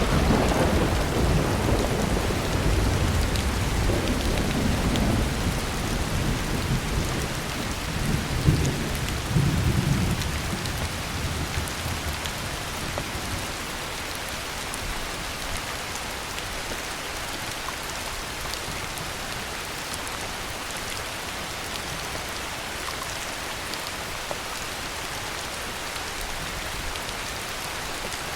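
Heavy rain falling steadily with a thunderclap that breaks out suddenly at the start and rolls on in low rumbling waves, peaking again about eight to ten seconds in before fading away, leaving the rain alone.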